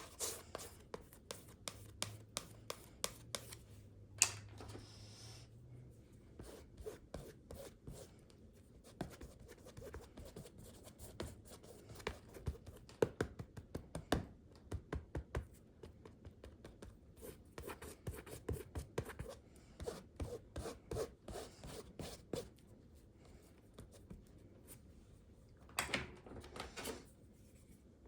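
Palette knife scraping and spreading acrylic paint across textured watercolor paper: a string of short, uneven rasping strokes with small taps, and a louder run of scrapes near the end.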